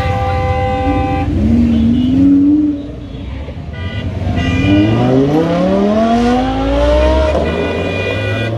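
Car horns honking in several blasts, over engines running, with a sports car's engine revving up twice, the second a long rising run of about three seconds.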